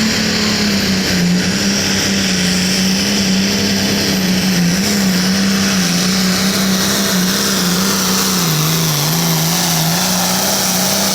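Hot farm pulling tractor's diesel engine running flat out under load, a loud steady note that wavers and sags slightly in pitch about nine seconds in. The sound drops off abruptly at the very end.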